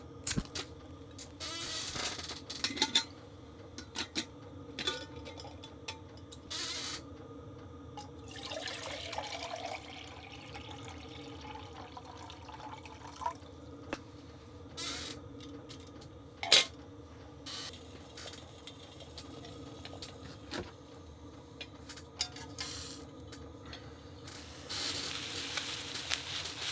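Water sloshing or being poured a couple of times, among scattered clicks and knocks of gear being handled, over the steady hum of a diesel heater running.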